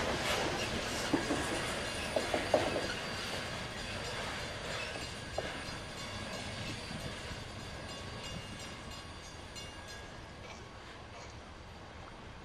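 Freight cars of a coke train rolling along the rails, with a few sharp clanks in the first three seconds, then fading steadily as the train moves away.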